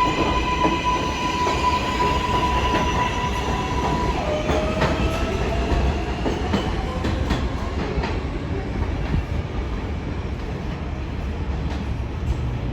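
R188 subway train on the 7 line pulling out of the station: a steady electric whine that gives way about four seconds in to a tone slowly rising in pitch as it picks up speed, over rumbling wheels with clicks and squeals on the rails.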